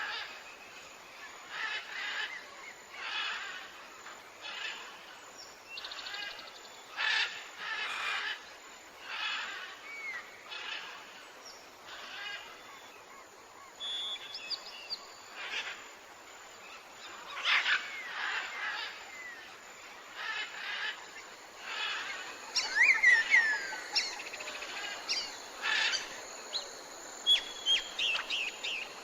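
Wild birds calling: a raspy call repeats roughly once a second. Short clear whistles come in about halfway, and a quick flurry of chirps follows later on.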